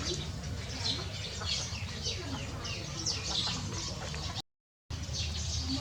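Birds chirping: many short, high, falling peeps repeating and overlapping over a steady low hum. The sound drops out completely for about half a second near the end.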